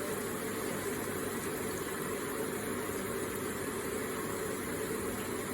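Electric water feature running: a steady trickle and splash of falling water.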